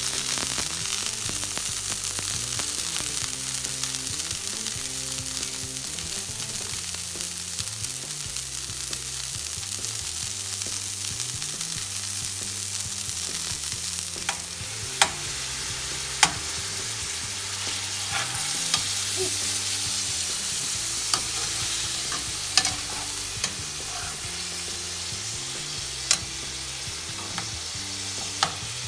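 Hot dogs sizzling steadily in a hot grill pan. In the second half a utensil knocks sharply against the pan a handful of times as the dogs are turned.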